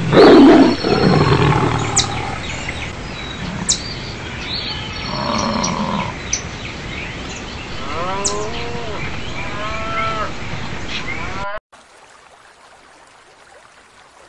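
Animal calls: a loud low call at the start, then a run of repeated calls rising and falling in pitch a few seconds before a sudden cut to much quieter background noise.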